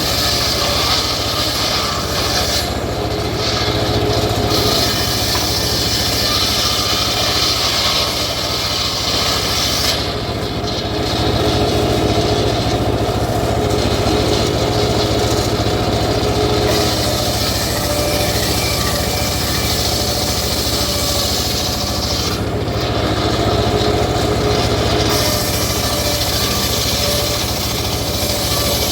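Homemade circular saw rig sawing teak logs, running continuously with a steady low hum under the cutting noise. The high-pitched hiss drops away for a few seconds three times.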